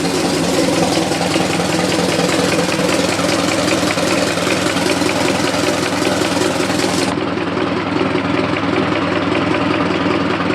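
Ford Model T four-cylinder engine idling with a steady, fast ticking knock; the sound turns duller about seven seconds in. The engine has under 1000 miles on a rebuild, and the owner says it sounds like an engine knock.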